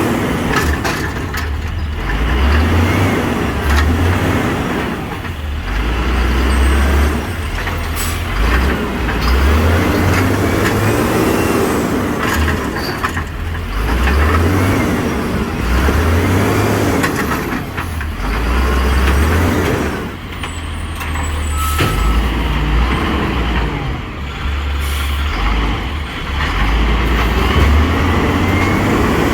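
Garbage truck's diesel engine working through a recycling pickup, revving up and dropping back again and again every few seconds, with a few sharp mechanical knocks.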